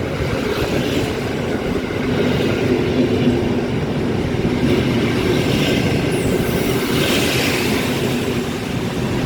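A train running past on the track: a steady, loud rumble of wheels on rail.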